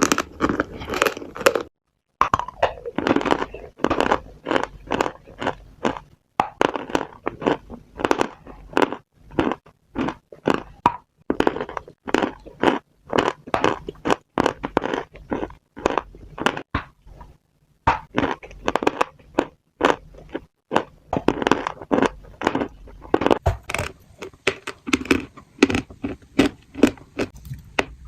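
Crunchy food being bitten and chewed close to the microphone: rapid, irregular crunching and crackling with brief pauses.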